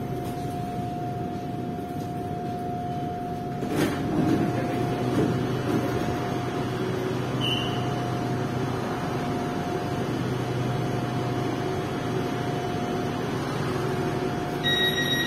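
Steady interior noise of an electric commuter train, with a constant hum and a faint whine, and a single sharp click about four seconds in.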